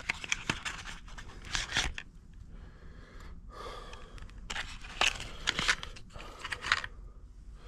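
Hands working on an outboard's spark plugs, giving irregular short bursts of clicking, scraping and rustling as tools and plugs are handled.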